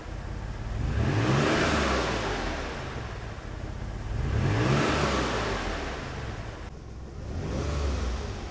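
Maserati Biturbo 2.24V's twin-turbo V6 engine, freshly cold-started, being blipped three times: each time the pitch rises and falls back towards idle.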